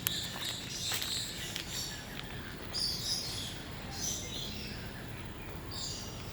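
Several birds chirping and calling over a steady background hiss, with a few short clicks near the start.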